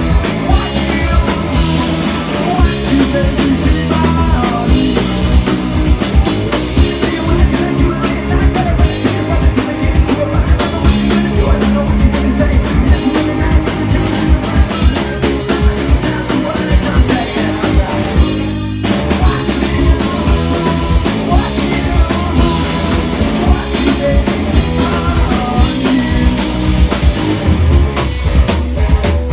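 A live rock band playing loudly, driven by a drum kit, with a brief stop about two-thirds of the way through before the band crashes back in.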